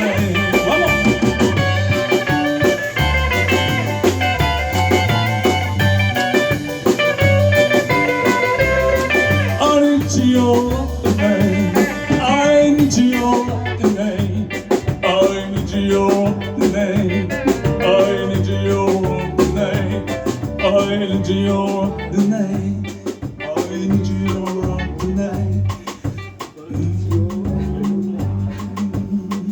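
Live band playing an instrumental passage: an electric guitar solo over bass guitar and drum kit. The cymbals drop out about halfway through, leaving guitar, bass and drums.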